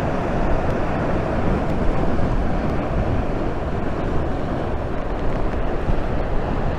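Steady wind rumbling and buffeting against the microphone, with heavy rain hissing underneath.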